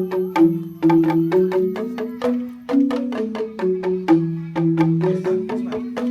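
Balinese keyed percussion played with mallets: a quick, repeating melody of struck notes, several strikes a second, stepping up and down over a few pitches.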